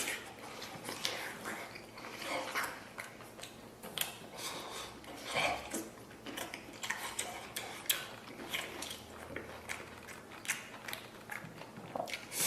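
A person eating close to the microphone: chewing, with irregular small clicks of utensils against a bowl.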